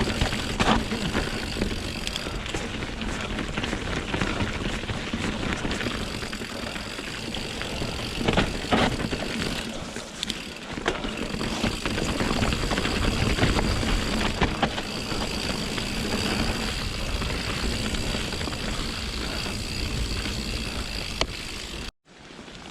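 Mountain bike ridden over wet, rocky singletrack on Pirelli Scorpion tyres: steady tyre and trail rumble with frequent knocks and rattles from the bike. The sound cuts out briefly about a second before the end.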